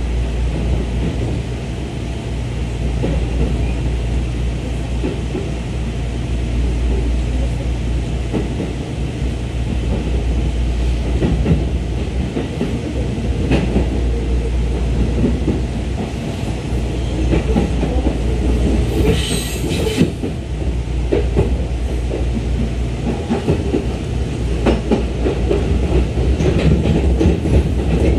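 Running noise of a JR 211 series electric train heard from inside the car: a steady low rumble with the clickety-clack of wheels over rail joints. The clacks grow busier in the second half, with a brief high-pitched squeal about two-thirds of the way through.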